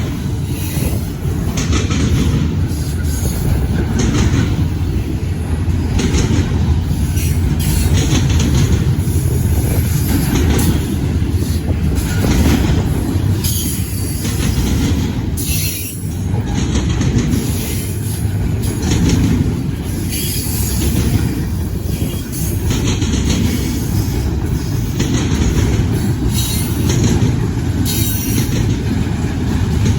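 Freight train cars rolling past, steady and loud, with steel wheels clicking over the rail joints.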